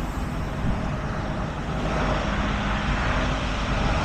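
Tow truck engine running, a steady low rumble that grows a little louder about two seconds in.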